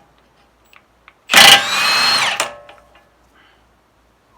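Electric power tool running in one burst of about a second to spin off a front drive axle nut, its motor tone falling as it winds down and stops.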